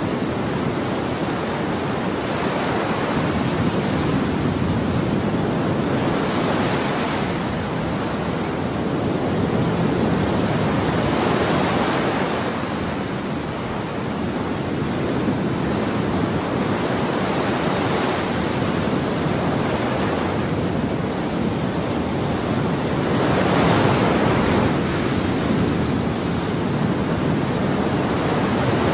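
Ocean waves breaking and washing on a shore, a continuous rush of surf with a fresh surge every few seconds.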